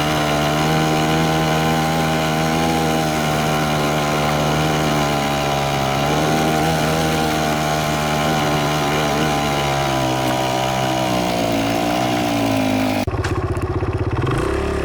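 Dirt bike engine running at a steady pace while riding, its pitch easing down a little toward the end. About two seconds before the end the sound changes suddenly: the higher sounds drop away and a low, rapid pulsing rumble remains.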